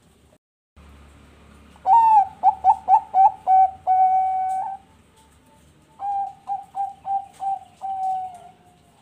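Zebra dove (perkutut bangkok) singing: two cooing phrases, each a quick run of short notes ending in one long held note, the first starting about two seconds in and the second about six seconds in.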